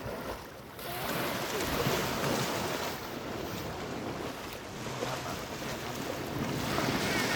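Sea waves washing in at the shore, with wind buffeting the microphone; the wash swells up about a second in and stays steady.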